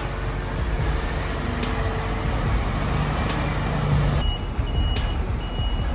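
A heavy vehicle's engine running with a low rumble, then a reversing alarm starts about four seconds in, a high beep repeating evenly almost twice a second.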